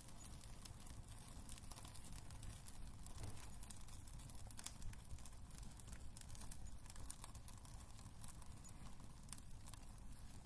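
Wood fire in a fireplace crackling faintly: many small irregular pops and snaps over a low rumble, with one sharper pop about five seconds in.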